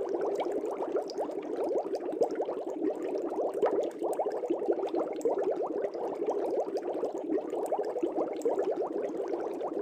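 Aquarium air bubbles streaming up through the water in a steady, dense bubbling, with many small bubbles popping.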